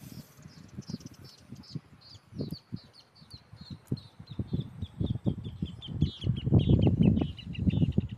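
A bird calling in a long, even series of short high chirps, about four a second, slowly falling in pitch. Under it are irregular low bumps and rumbling, loudest near the end.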